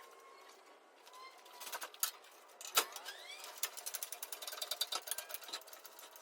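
Sped-up timelapse shop sounds of hand tools: scattered clicks and clanks, a quick rising squeak a little before halfway, then a dense run of fast, ratchet-like ticking.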